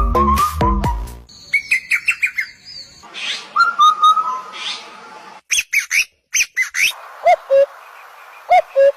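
Electronic dance music ends about a second in. It gives way to a string of short, sharp bird chirps and calls in quick bursts, some high and some lower, broken by abrupt cuts.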